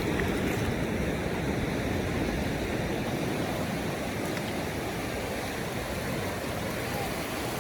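Ocean surf washing steadily onto a beach, an even rush of water noise that starts abruptly.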